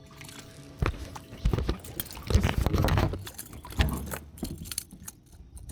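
Irregular knocks and clatter, loudest in a cluster around two to three seconds in, as after a short stretch of background music fading out.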